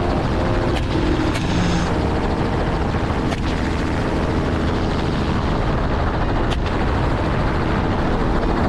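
Helicopter running steadily, its engine and rotor noise loud and close, with a few brief sharp knocks scattered through it.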